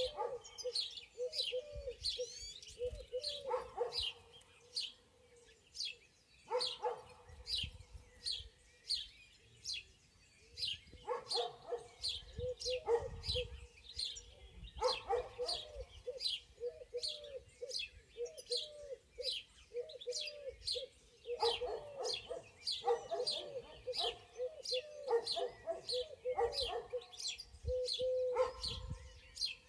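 Spring forest birdsong. One bird repeats a high, quick downward-sliding chirp about twice a second without pause, while lower calls come in short bouts every few seconds.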